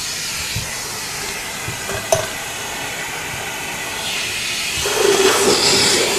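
Central vacuum drawing air through a wire-reinforced hose and airflow meter: a steady rushing hiss of suction. A sharp click comes about two seconds in, and near the end the airflow gets louder with a low whistling tone in it.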